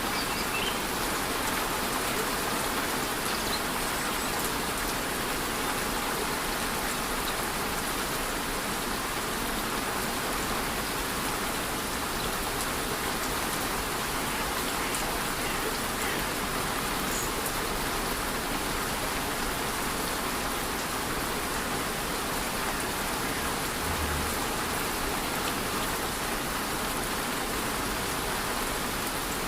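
Steady rushing of a rainforest waterfall mixed with light rain falling on the surrounding foliage, an even, unbroken wash of water noise.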